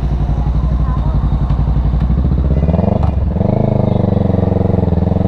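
Kawasaki Ninja 650's parallel-twin engine running under way, its pitch rising about three seconds in as it picks up speed, then holding steady.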